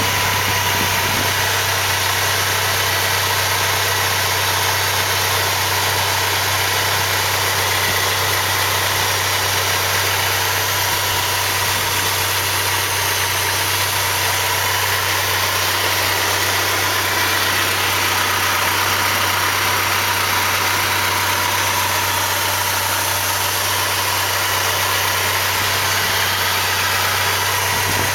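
Engine idling steadily while it is fed water, holding an even speed with no revving.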